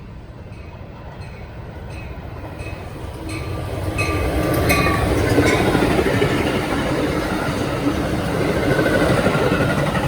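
Train on the main line drawing near and passing: a rumble with rail noise builds over the first few seconds and then stays loud. A run of short sharp clicks, from the wheels on the rails, comes as it nears.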